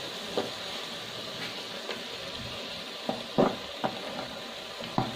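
Potato and spinach curry sizzling steadily in ghee in a pan, with a few light knocks, the loudest about three and a half seconds in.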